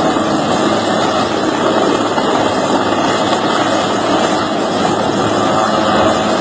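A loud engine running steadily, with a dense, unbroken noise and a low hum.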